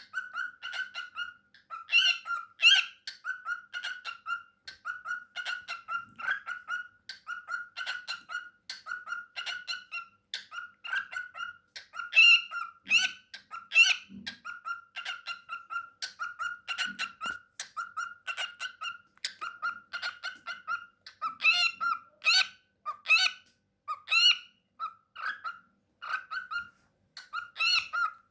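Pet cockatiel vocalizing in a steady run of short, repeated pitched notes, several a second, with a few louder, higher notes now and then.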